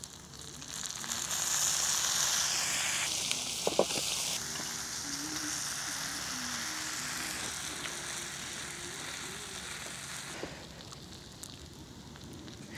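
Food sizzling on a hot cast-iron griddle over a fire as sauce is poured onto fried garlic and meat and rice is pressed into the pan. The sizzle swells about a second in, then slowly dies down, with a few utensil clicks against the pan.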